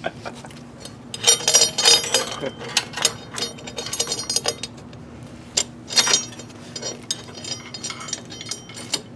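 Metal tools and bike parts clinking and rattling as they are handled, with a cluster of ringing metallic clinks about a second in and another sharp clink around six seconds in.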